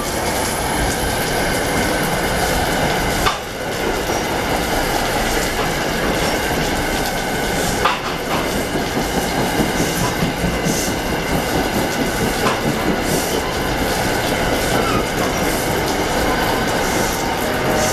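New Jersey Transit passenger train rolling past at speed: a steady rumble of wheels on rail, with a few sharp clicks as wheels cross rail joints, about 3 s, 8 s and 12 s in.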